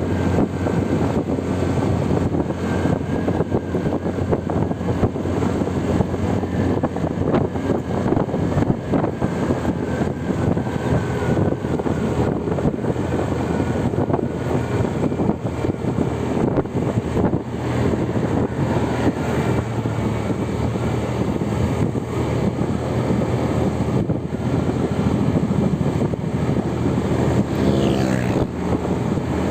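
Steady motor-vehicle road noise, engine and tyre rumble, with a brief pitched sound near the end.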